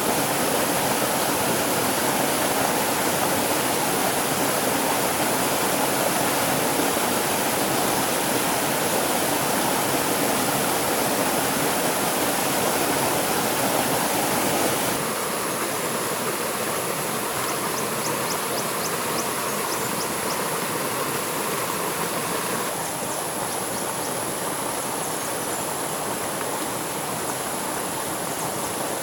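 Flowing stream water rushing steadily, its level and tone changing abruptly twice.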